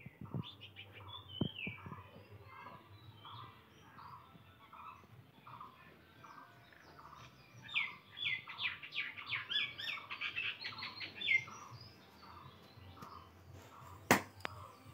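Birds calling: one repeats a short note about twice a second, and for a few seconds in the middle another breaks into a quick run of high chirps. A single sharp knock comes near the end.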